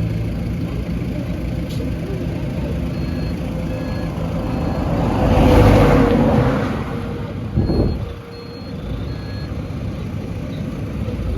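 Heavy diesel earthmoving machinery running, with a truck's reversing alarm beeping on and off. The noise swells to its loudest about halfway through, with a brief loud burst shortly after.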